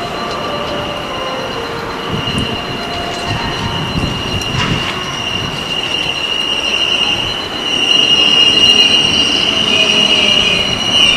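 Four-car 521 series 100-subseries electric train pulling into the platform, with a steady high-pitched squeal as it slows, growing louder about eight seconds in.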